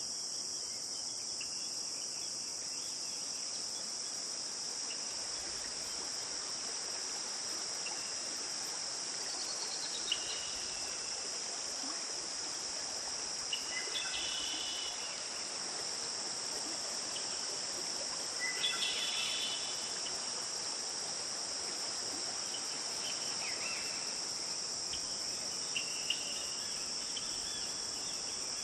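Steady, high-pitched insect chorus that never lets up, with a few short chirps from another animal scattered through it.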